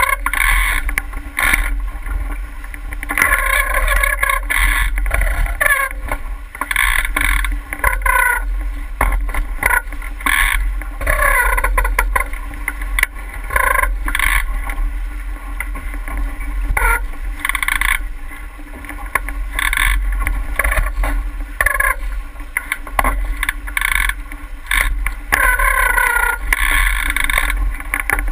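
A boat moving through water, with water rushing and splashing against the hull in irregular surges every few seconds over a steady low rumble.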